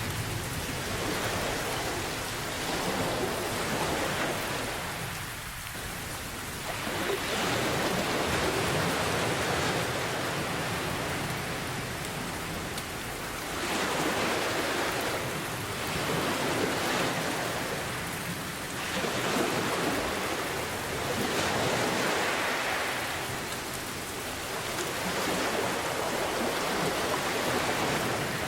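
Steady downpour of rain mixed with ocean waves, the wash swelling and falling back every four to six seconds.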